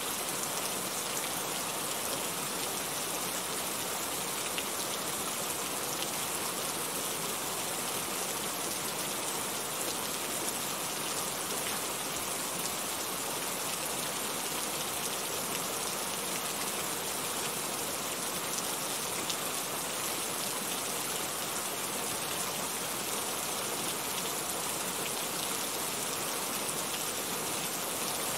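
Steady rain falling: a constant, even hiss with a fine patter of scattered drops.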